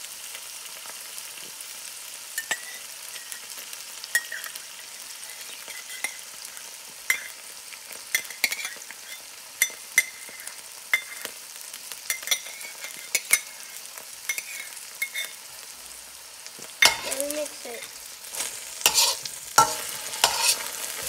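Garlic, sliced peppers and oyster sauce sizzling in hot oil in a wok, with scattered pops and crackles. Near the end a metal spatula scrapes and clatters against the wok as everything is stirred.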